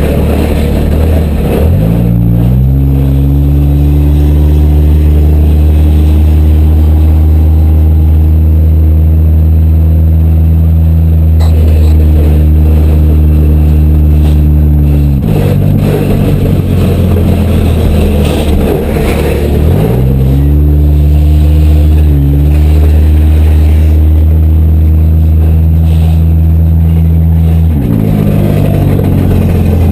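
Demolition derby car's engine, very loud, revved up and held at high revs for long stretches. It rises about two seconds in, drops back around the middle, revs up again and falls off near the end.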